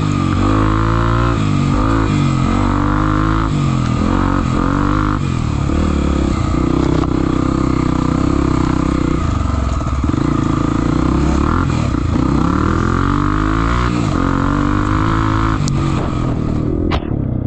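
Trail motorcycle engine revving up and down over and over, with a few stretches held at steady revs.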